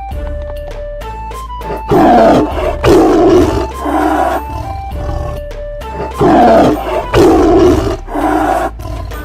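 Loud animal roar sound effects over background music: a group of roars starting about two seconds in, then the same group again about four seconds later.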